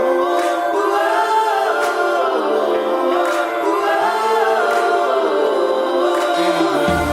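Christmas song passage of a cappella choir singing in vocal harmony, with no bass until a low bass line comes in at the very end.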